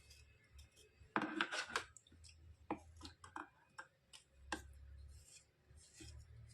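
White slate pencils being handled and scraped: sharp clicks and taps of chalky stone, a quick cluster of them about a second in, with short rough scraping rubs between.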